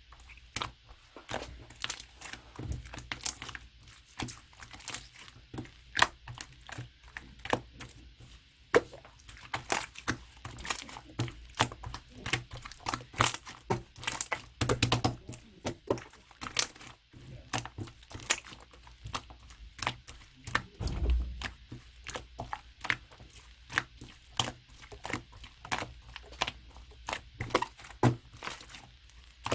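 Clear slime being squished and poked by hand, making a dense, irregular run of sharp clicks and pops, with a couple of duller thumps.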